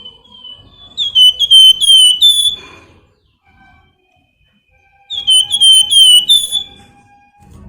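A Flamboyan songbird singing in nyiul style: two phrases of quick, loud, downward-slurred whistled notes, about three notes a second. The second phrase starts about five seconds in, after a quieter gap.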